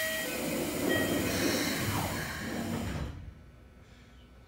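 Inside a stopped Keikyu 1500 series commuter car, a loud, even hiss that cuts off abruptly about three seconds in, leaving a low background hum.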